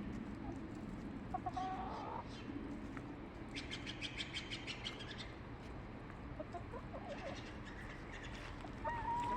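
Backyard hens clucking quietly in short notes, about a second and a half in and again near the end. Partway through, a wild songbird sings a fast, high chirping trill.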